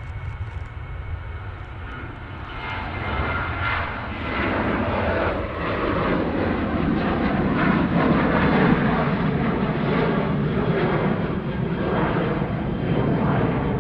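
Passenger jet's engines growing louder over the first several seconds as the aircraft nears, then a steady loud rumble.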